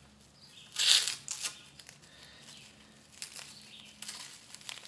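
Masking tape being pulled off epoxy-coated wood: a loud rasping tear about a second in, a few shorter crinkles after it, then softer rustling of the tape near the end.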